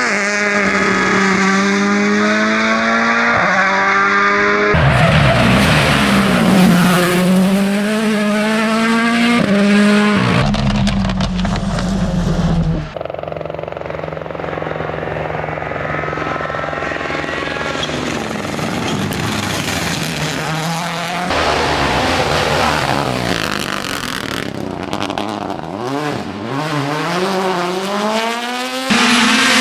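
Turbocharged four-cylinder rally cars at full throttle on tarmac. Engine pitch climbs and drops sharply again and again as they shift through the gears and brake, across several passes cut one after another.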